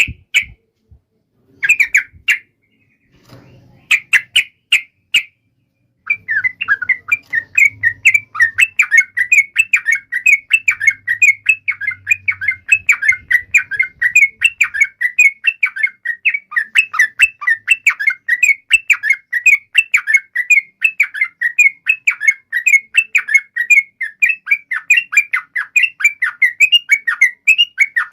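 Yellow-vented bulbul (trucukan) song: a few short bursts of notes in the first five seconds, then from about six seconds a long, unbroken run of rapid chattering notes, the drawn-out 'ropel' song.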